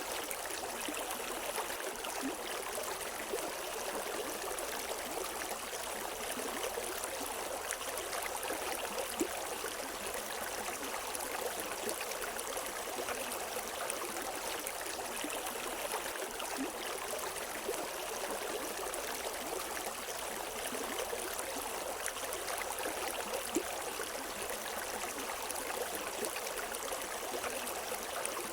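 River water flowing over rocks: a steady rushing and splashing with no birdsong.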